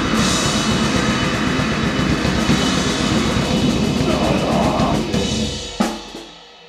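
A grindcore noise band playing a dense, noisy rush of distorted instruments and drums. Near the end it stops on one final hit that rings out and fades.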